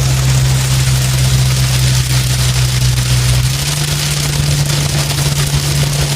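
Steady rain, a continuous hiss, over a loud steady low hum that shifts slightly higher about three and a half seconds in.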